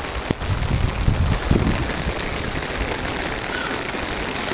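Rain falling steadily on a hard surface, with a few dull low thumps in the first two seconds.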